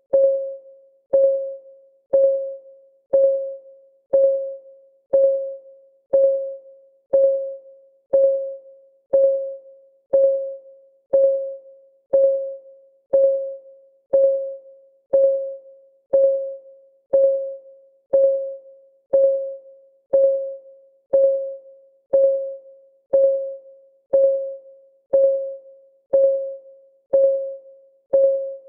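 Clock ticking sound of a countdown timer: one pitched tick each second, each ringing briefly and dying away before the next.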